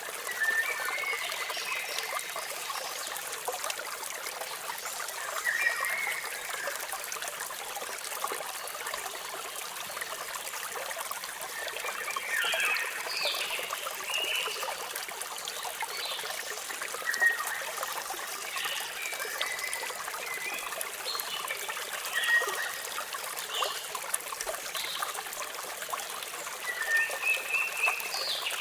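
Steady splashing of a waterfall, with birds chirping on and off throughout.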